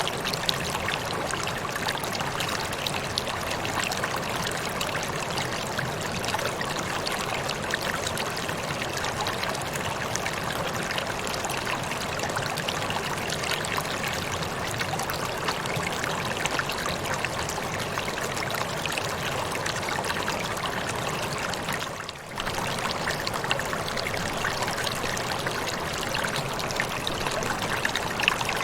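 Waterfall: a steady, continuous rush and splash of falling water, with one brief dip in level late on.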